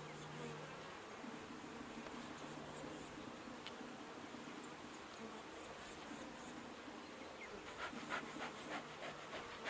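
Honeybees buzzing steadily around an opened Langstroth hive, a low droning hum of bees that are getting a little irritated. Near the end comes a quick run of short scratchy clicks, about four a second.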